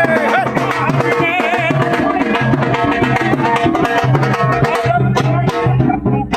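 Live Indian folk music: a hand drum beating a quick, busy rhythm under a wavering melodic line, dipping briefly near the end.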